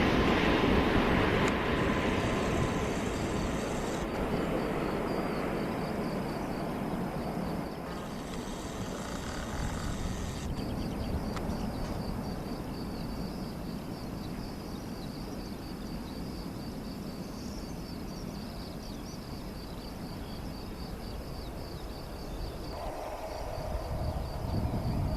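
Jet engine noise of an Airbus A350-900 fading away over several seconds after it lands, leaving a low rumble and a faint, regular insect chirping. Near the end a new engine sound builds up.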